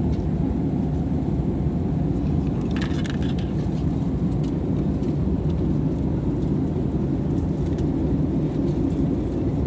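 Steady low roar of an airliner cabin in flight: engine and air noise. A few light clicks and rattles come about three seconds in.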